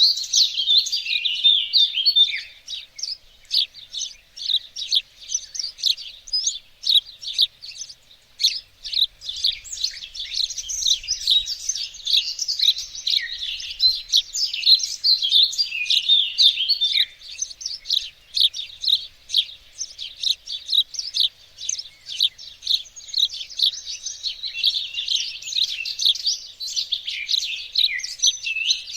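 Several songbirds singing and chirping together in a dense, continuous chorus of high, quick notes, thinning out for a few seconds early on before building back up.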